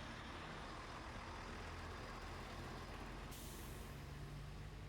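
A vehicle engine running steadily, with a short hiss that starts suddenly a little over three seconds in.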